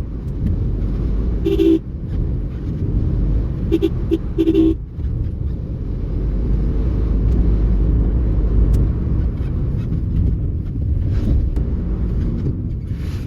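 Car running with a steady low rumble. A few short pitched beeps sound in the first five seconds: two near two seconds in, then a quick pair around four seconds.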